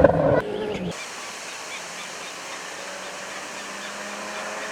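A rally car's engine for about the first second, cutting off suddenly into a steady hiss with a faint low hum.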